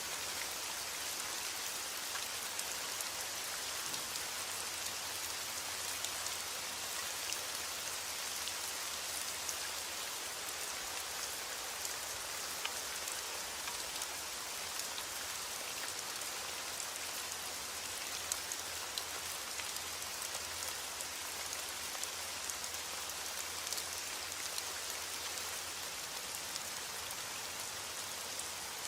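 Steady rain falling on a surface, an even hiss flecked with the ticks of individual drops, with no thunder.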